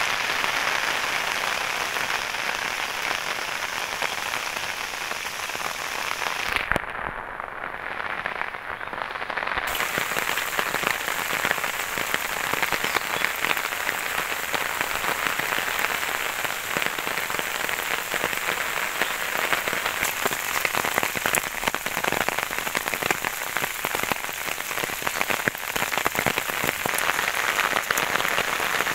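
Steady rain falling, an even hiss of many small drop ticks. About seven seconds in, the upper part of the hiss drops out for about three seconds and then returns.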